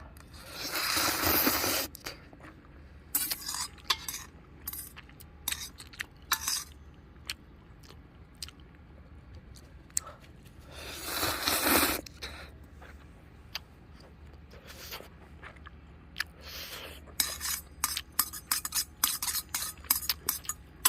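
Ramen being eaten: utensils clicking and scraping against a bowl, with chewing. Two longer noisy stretches of about a second and a half come at the start and about halfway, and the clicks crowd together near the end.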